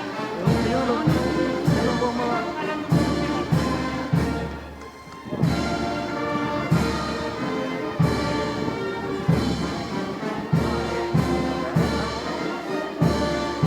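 Brass band playing a slow processional march, held brass notes over a drum beat a little under twice a second. The music drops away briefly about four and a half seconds in, then the band comes back in.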